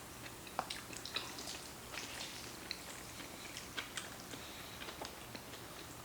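Quiet eating sounds: chewing of noodles, with small scattered clicks and wet mouth noises.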